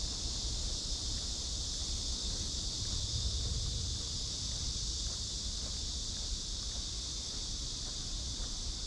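Cicadas singing in a continuous chorus, a steady high-pitched hiss that does not let up, with a low rumble underneath.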